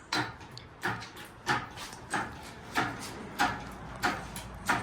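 Engine hoist being worked to lift an engine out, with a regular mechanical click about every two-thirds of a second.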